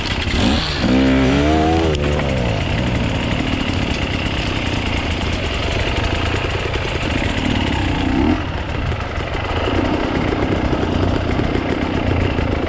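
Off-road enduro motorcycle engine revving, its pitch rising and falling sharply about a second in, then running on at a steady level with smaller blips of throttle.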